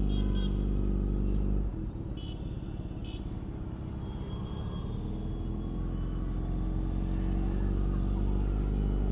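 Motorcycle engine running while riding in city traffic; its sound changes about two seconds in and then slowly builds louder.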